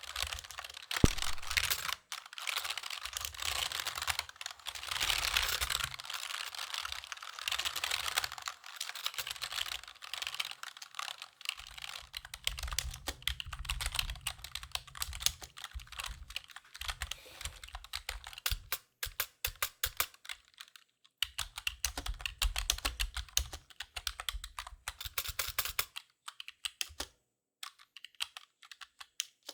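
Typing on a computer keyboard: fast, dense runs of key clicks with a couple of short pauses, thinning out toward the end.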